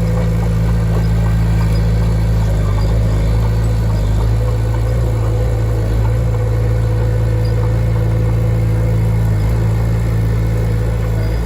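Heavy construction machine's engine running steadily at a constant speed, a deep, even engine note with no changes in pitch.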